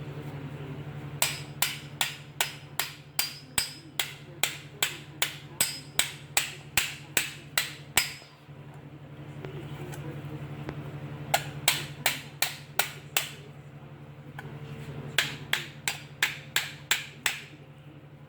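Hammer tapping thin sheet-metal engine tin to straighten it. The tin is bent where it pinched the push rod. The taps come in three runs of steady blows, about two or three a second: a long run, a pause, then two shorter runs.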